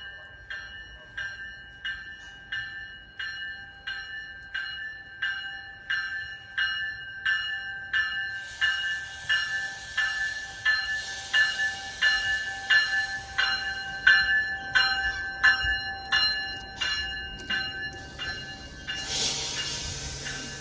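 Railroad grade-crossing bell ringing steadily, about two strikes a second. A passing train's rushing noise builds under it from about eight seconds in and is loudest near the end.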